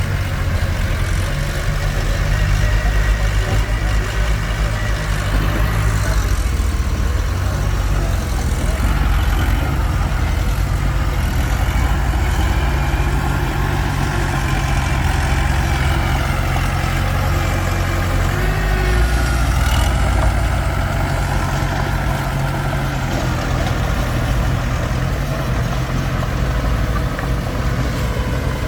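Komatsu D21P bulldozer's diesel engine running steadily with no break, its pitch shifting slightly now and then.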